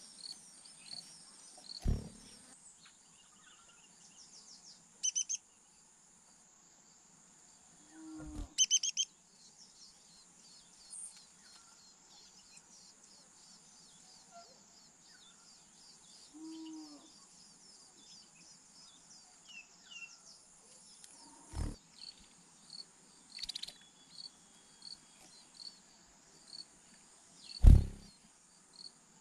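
A steady high insect chorus of crickets, with short bird chirps scattered through it. Four sudden low thumps cut in, the loudest near the end.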